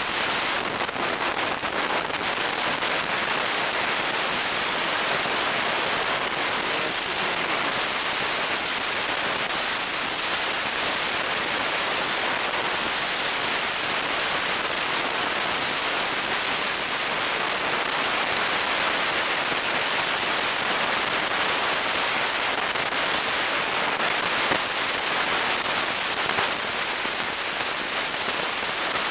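Waterfall: falling water rushing and splashing steadily.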